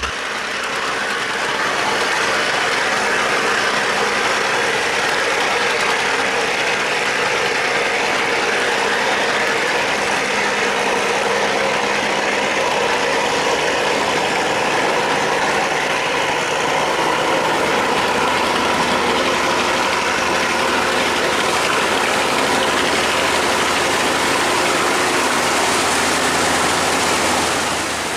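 Boat and barge engines running steadily, a dense even noise with a faint low hum.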